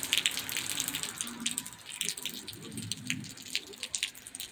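Rain falling, with many irregular drops striking close by over a steady hiss.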